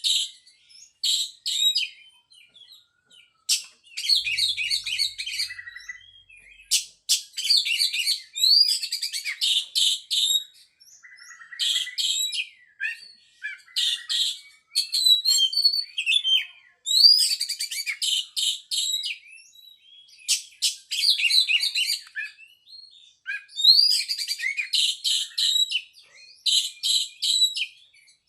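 Oriental magpie-robin (kacer) singing loudly: varied whistled and trilled phrases in bursts of a second or two, with short pauses between them.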